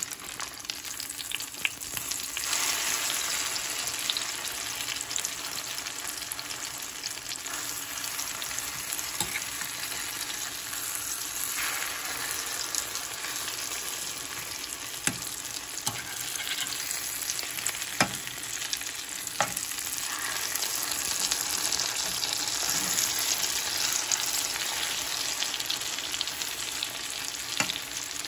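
Eggplant omelet sizzling as it fries in hot oil in a pan, a steady hiss, with a few sharp clicks as the spatula knocks against the pan.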